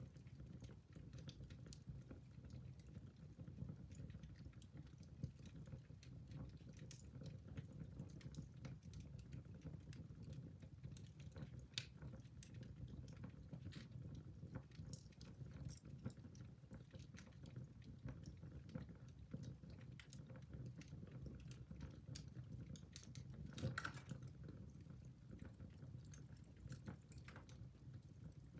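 Wood fire in a fireplace crackling faintly: irregular small pops and snaps over a low steady rumble, with one louder pop near the end.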